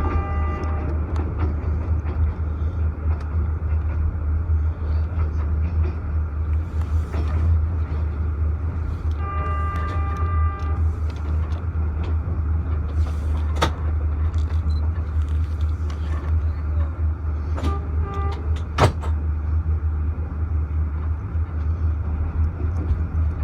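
Passenger train running with a steady low rumble, a few sharp clicks, and two brief pitched tones: one around ten seconds in and a shorter one near eighteen seconds.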